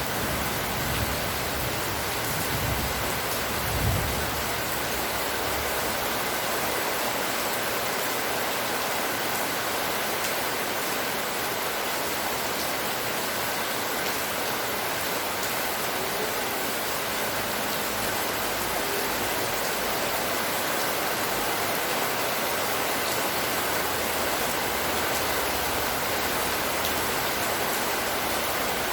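Steady rain pouring, an even hiss without a break. A low rumble sounds in the first few seconds.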